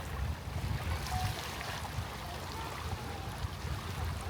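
Seaside ambience on a tidal flat: a steady low, uneven rumble under a soft wash of water, with no clear single event.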